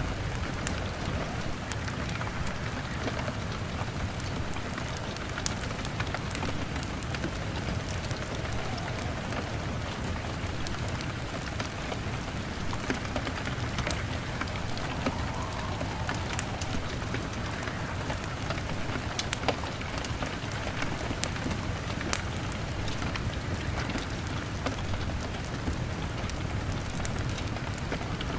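Rain falling steadily on a window, mixed with a crackling log fire: an even hiss over a low rumble, broken by scattered sharp pops and clicks.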